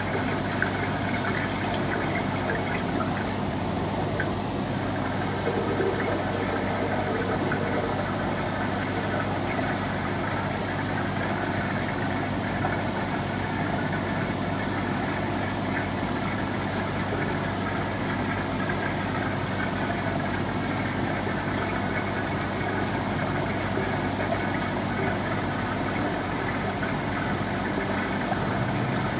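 An engine running steadily at constant speed, an even hum with no changes in pitch or level.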